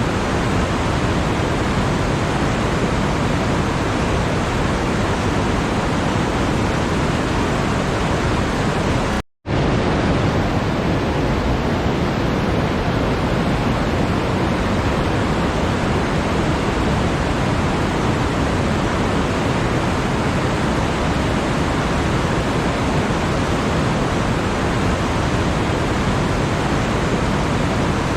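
Steady, even rushing noise that drops out completely for a split second about nine seconds in, then resumes.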